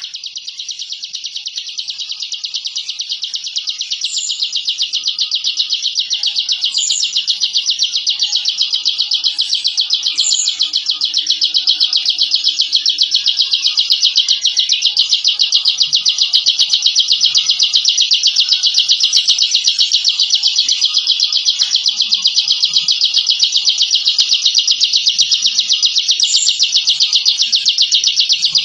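Ciblek (prinia) singing its 'ngebren' song: one long, unbroken, very fast buzzing trill, with a few short higher chirps over it.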